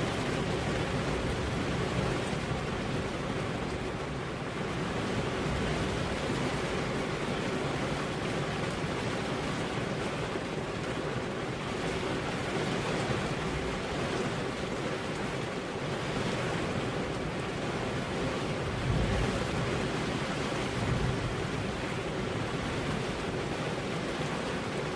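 Steady rain with wind, an even hiss without pause, and a couple of brief low rumbles of thunder about three-quarters of the way through.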